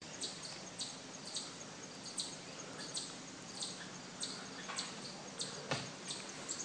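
A bird repeating a short high chirp about every two-thirds of a second over faint outdoor background noise, with one sharper click near the end.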